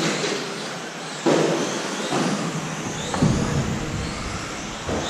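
Electric radio-controlled 1/10 touring trucks with brushless motors racing on a track: a steady mix of motor whine and tyre noise, with whines rising and falling in pitch as the trucks accelerate and brake, and a few sudden jumps in loudness as trucks pass close by.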